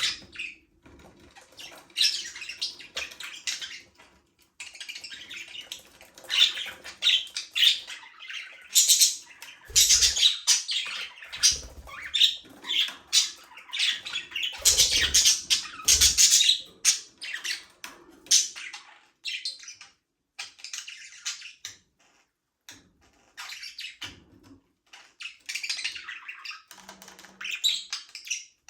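A flock of budgerigars chirping, chattering and squawking, busiest through the middle with a few short lulls and some low thumps.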